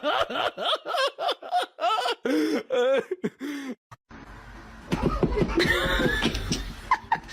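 A person laughing in a quick run of short bursts. About four seconds in, a cut brings a different background hiss and another stretch of laughing vocal sounds.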